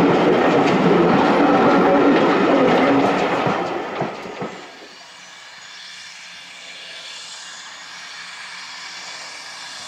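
Green passenger train coaches rolling past, with a steady hum and wheels clicking over the rail joints. The sound drops away about four and a half seconds in, leaving a faint steady background.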